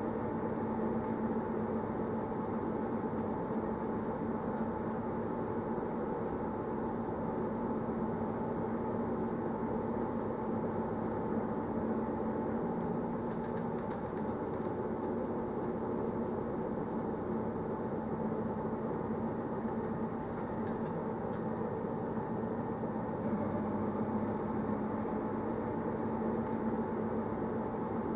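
Steady running noise of an electric train on the Interlaken–Grindelwald line, heard from inside the carriage: an even rumble of wheels on rails with a constant low hum.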